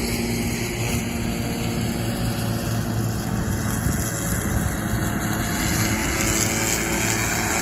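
Yanmar ViO30-6 mini excavator's diesel engine running steadily, driving a Cutterman KM30 hammer-knife mower head through grass. A rushing hiss swells in the second half.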